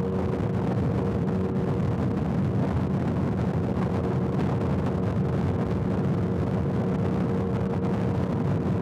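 Motorcycle engine running steadily at highway cruising speed, an even hum with no change in revs, mixed with a constant rush of wind and road noise.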